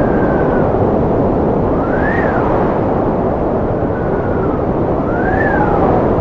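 Strong wind blowing, a steady rushing noise with whistling tones that rise and fall in pitch, two of them sweeping up to a peak and back down.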